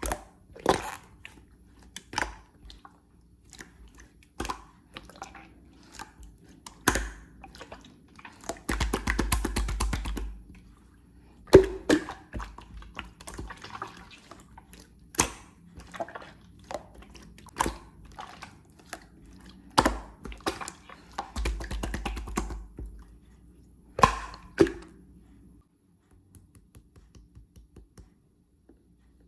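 Clear slime being pressed and squished by hand: a string of sharp wet pops and clicks, with two longer runs of rapid crackling, about nine and twenty-two seconds in.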